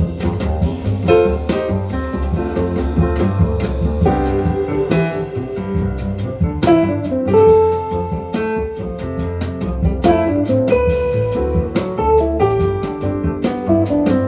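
Jazz quartet playing steadily: piano, guitar, double bass and drum kit keeping time on cymbals. The recording is played back over hi-fi loudspeakers and picked up by a microphone in the listening room.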